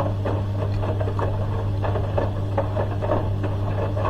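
Hoover H-wash 300 Plus washing machine's drain pump running on and on: a steady low hum with irregular clicking and rattling over it.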